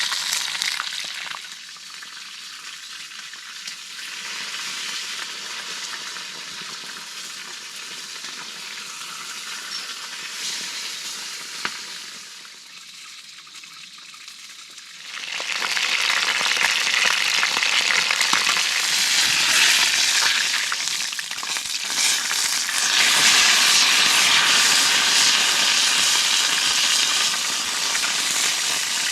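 Chicken drumsticks frying in hot oil, a steady sizzle. It drops quieter a second or two in and grows loud again about halfway through.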